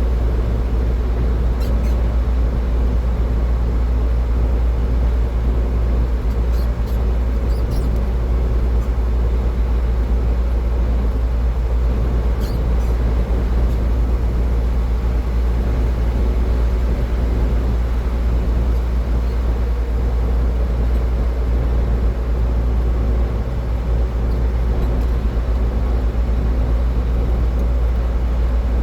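Car driving on a highway: a steady low rumble of tyre and engine noise that holds even throughout, with a few faint clicks in the first half.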